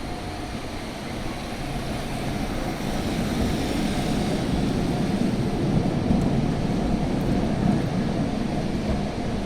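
Toei Type 8800 electric tram pulling in to a stop. Its running noise and wheel rumble grow louder over the first few seconds, then hold steady as it comes in.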